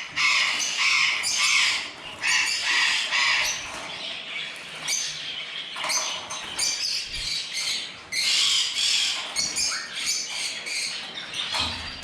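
Parrots squawking over and over in harsh, quick calls.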